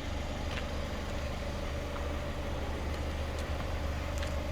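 Car engine idling steadily, with a constant low hum.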